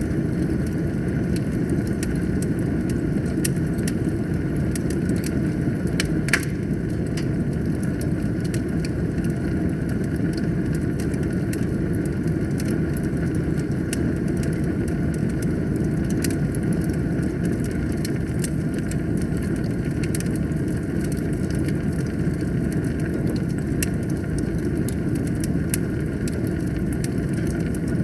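Wood fire burning in a fireplace: a steady low roar with frequent small crackles, and one louder pop about six seconds in.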